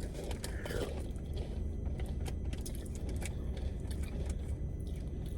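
Steady low rumble of a car's interior while driving, with scattered small clicks and rattles.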